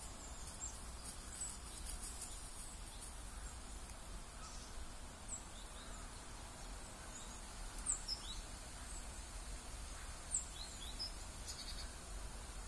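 Quiet riverside ambience: a steady low rumble with small birds giving a few short, high chirps, most of them in the second half.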